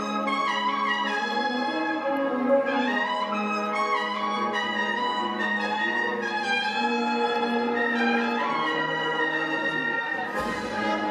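Brass band of an agrupación musical playing a slow Holy Week processional march, with trumpets and low brass holding long melodic notes.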